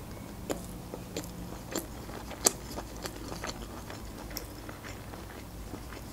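Close-miked chewing of a mouthful of boiled broccoli: soft, wet mouth clicks and smacks, spaced irregularly about half a second to a second apart.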